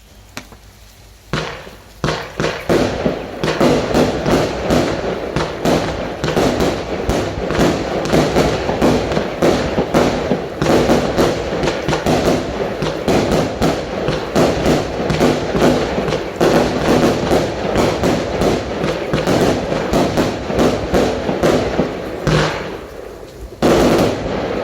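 Cube Fireworks 342 Oathbreaker, a 49-shot barrage cake, firing: a few single shots, then a rapid, overlapping string of launch thumps and aerial bursts for about twenty seconds, a short lull, and a final loud volley near the end.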